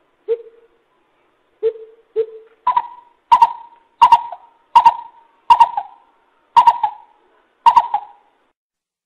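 Coucal (bubut) calling: a series of hollow hooting notes, each trailing off with an echo. Three lower, spaced-out hoots open it, then a steadier run of about seven higher hoots follows, roughly one every 0.7 seconds.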